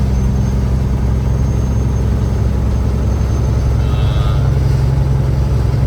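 Peterbilt 379 semi truck's diesel engine droning steadily while cruising at about 45 mph, with road noise.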